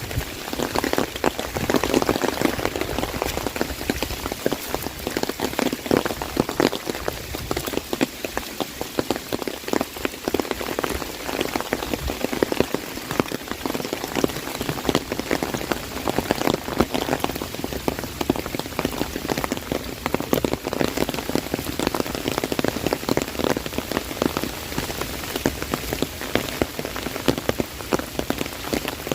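Heavy rain falling on an umbrella: a dense, steady patter of countless drops striking the canopy.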